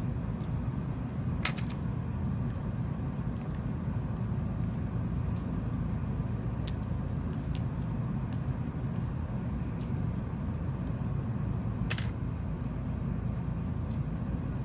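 Small sharp clicks and taps of tools and parts on a smartphone being reassembled, scattered every second or two with the loudest about twelve seconds in, over a steady low rumble.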